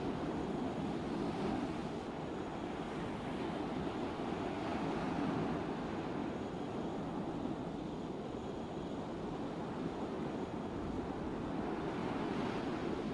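Steady noise of a cargo ship under way: a low rumble mixed with water wash, even and unchanging, with some wind on the microphone.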